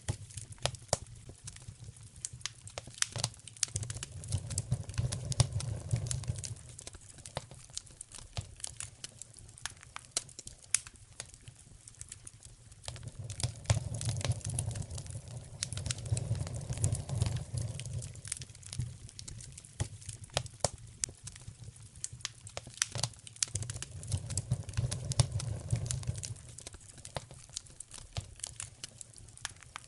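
Wood fire in a fireplace crackling, with dense sharp pops and snaps throughout and a low rumble that swells up and dies back three times.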